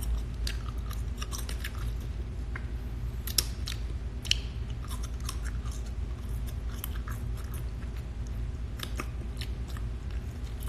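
Close-up mouth sounds of eating lobster meat: chewing with wet lip smacks and scattered short clicks as fingers go to the mouth.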